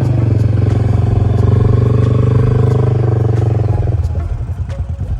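Motorcycle engine running at raised revs with a fast, even pulsing beat, dropping back to a lower, weaker idle about four seconds in.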